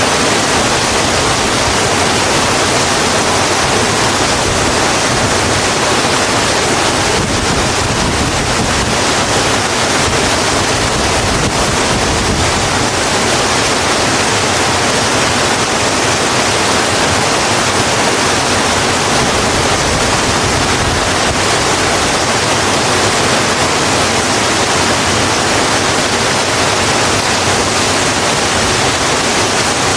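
Steady rain, an even hiss of falling water with no separate drops or thunder standing out.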